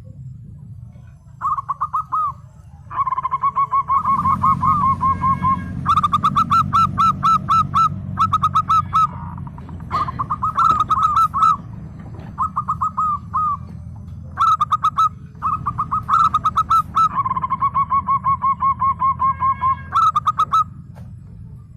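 Zebra dove singing: phrase after phrase of quick, evenly spaced cooing notes, with short pauses between runs, over a low steady hum.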